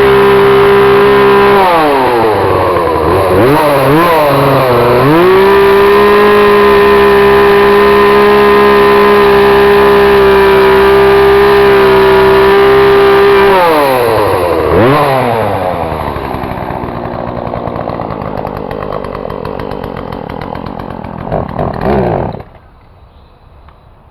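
Gas chainsaw cutting into a thick trident maple trunk at full throttle. Its pitch dips and wavers a couple of seconds in as it bogs in the wood, then holds high again. Past halfway it falls to a lower, quieter running and cuts off suddenly near the end.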